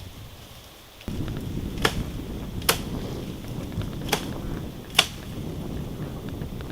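Wind rumbling on the microphone, starting suddenly about a second in, with four sharp clicks spread over the next few seconds.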